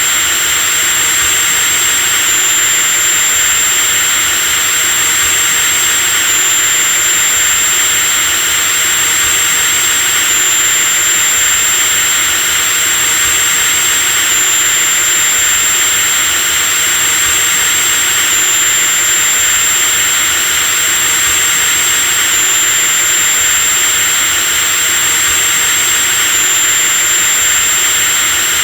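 Electric drill running steadily with a high-pitched whine over a dense motor hiss, with a slight hitch about every four seconds.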